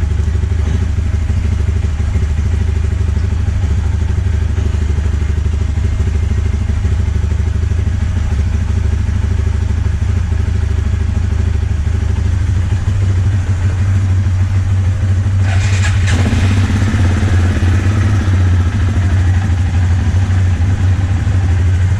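Kymco MXU 450 ATV engine running steadily at idle. About 13 s in its note changes, and a brief sharp clatter comes around 15 s in, after which it runs with a brighter, busier sound.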